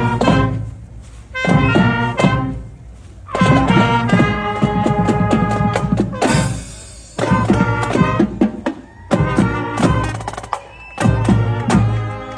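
Middle school marching band playing: brass instruments sounding in short phrases over drum hits, with brief breaks between phrases.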